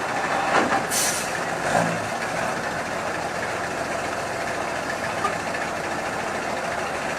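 Dump truck engine running steadily, with a short, high hiss of air about a second in and a couple of brief low knocks in the first two seconds.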